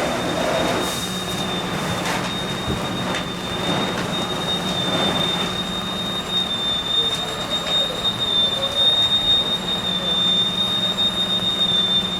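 Steady machine noise: a rushing hiss with a constant high-pitched whine and a low hum.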